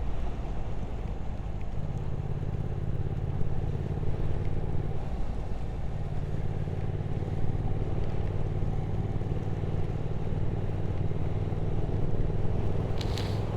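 Motorcycle engine running steadily under way, with the engine note shifting slightly a couple of times in the first few seconds.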